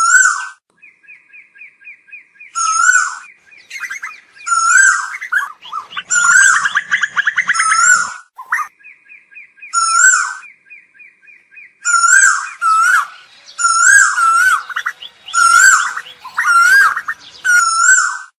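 Asian koel calling, a run of loud repeated calls with a sharp bend in pitch. Twice it gives a fast rapid series of short notes, at about seven a second, and the calls crowd together about six seconds in.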